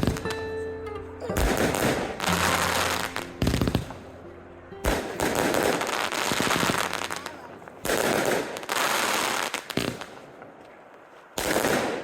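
Fireworks going off: sharp bangs and long bursts of rapid crackling, with a few steady musical tones in the first seconds.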